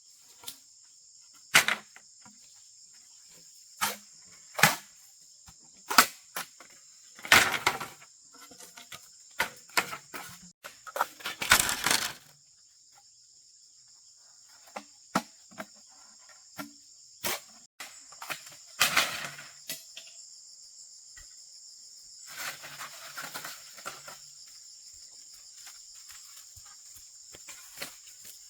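Steady high-pitched trilling of crickets or similar insects, with irregular sharp wooden knocks and cracks from wood being worked by hand, some of them in quick clusters.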